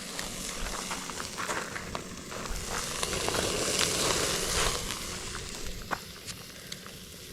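Burger patties sizzling on a grill over an open flame, with scattered crackles and pops. The sizzle swells louder about halfway through, then eases off.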